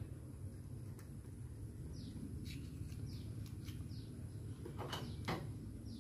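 A bird gives short, falling chirps about once a second over a steady low rumble. A few sharp clicks and cracks from an oyster shell being worked open with scissors and a small knife are mixed in, the loudest two about five seconds in.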